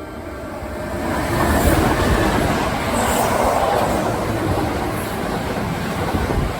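A Kintetsu electric train passing through the station at speed without stopping: a loud rush of wheels on rail and moving air. It swells over the first second or two and then holds steady.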